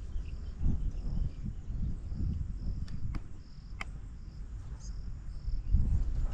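Crickets chirping in short high pulses, repeating about once or twice a second, over a louder low rumbling noise, with a few sharp clicks around the middle.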